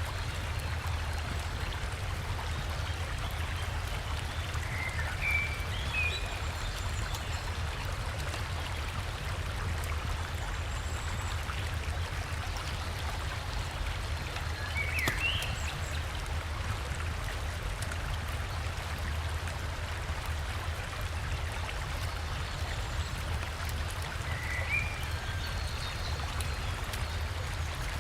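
Steady rush of river water and a waterfall, with a bird chirping briefly three times, roughly ten seconds apart.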